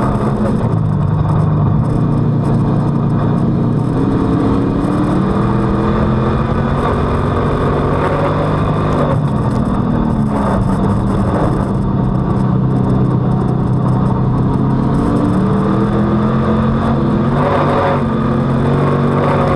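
Street stock race car's V8 engine heard from on board at racing speed, its pitch climbing under throttle and dropping off again several times, as on the straights and into the turns of a dirt oval.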